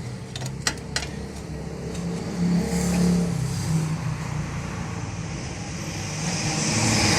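Car engine running steadily, its note swelling a little about three seconds in, with a few sharp clicks in the first second and a hiss that swells near the end.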